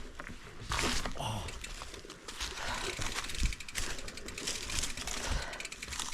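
Mountain bike ridden over rough trail: tyre and drivetrain noise with the frame rattling and irregular knocks and thumps as it hits obstacles.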